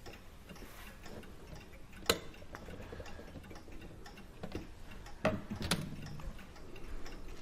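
Small metal clicks and scrapes of a screwdriver prying a steel E-clip off a lever post on a clock movement: one sharp click about two seconds in, then a few more clicks close together about five seconds in.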